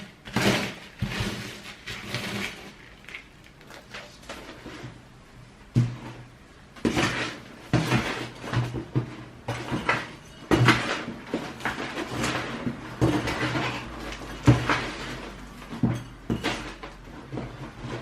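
Potting mix being mixed and scooped by hand, gritty scraping and rustling strokes coming irregularly, about one or two a second.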